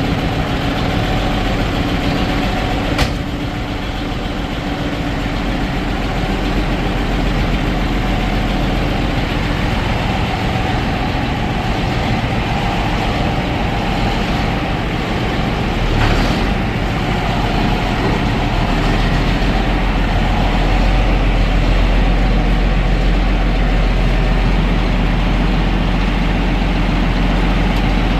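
John Deere 8640 tractor's diesel engine running steadily, sounding smooth. There is a sharp click about three seconds in and a thump around sixteen seconds, after which the deep low rumble grows stronger.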